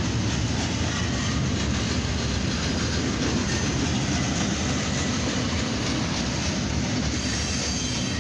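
CSX freight train's cars, loaded with steel coils, rolling steadily past: a continuous rumble and rattle of wheels on the rails.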